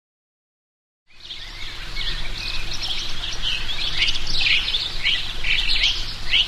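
Silence, then about a second in small birds start chirping: many quick, overlapping, downward-sliding chirps over a steady low background hum.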